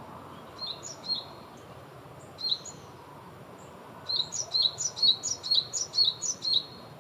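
A small bird giving short, high chirps, each a quick downward flick. A few come singly in the first half, then a quick run of about nine follows near the end at roughly four a second, over a steady low background hiss.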